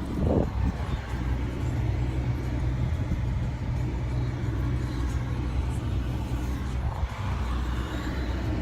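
Car engine running steadily with an even low hum, with a brief louder noise just after the start.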